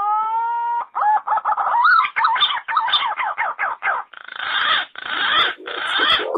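Green pigeon (punai) lure call: a whistled note that slides up and holds, then a run of quick warbling whistles, ending in three harsh, rasping notes.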